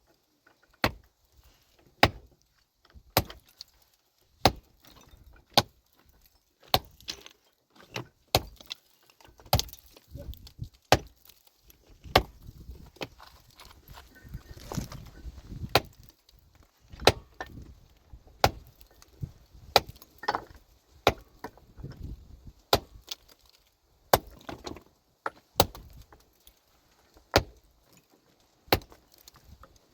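A heavy metal tool repeatedly striking rock, one hard blow roughly every second, with rubble and scraping sounds between strikes partway through.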